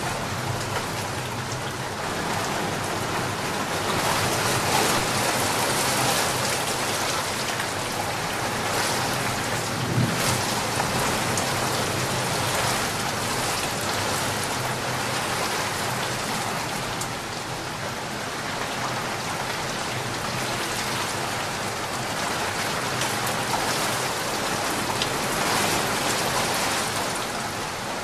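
Heavy rain falling steadily onto a flooded street: a continuous hiss.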